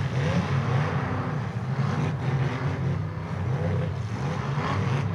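Demolition derby cars' engines running and revving, several at once, with pitch rising and falling as drivers throttle up to ram.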